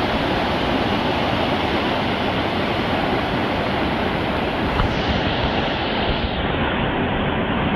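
Steady rushing water of a mountain stream.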